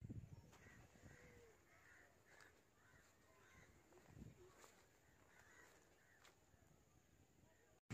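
Near silence outdoors: a bird calls faintly several times in the first few seconds, with a few faint clicks and a soft low thump later on.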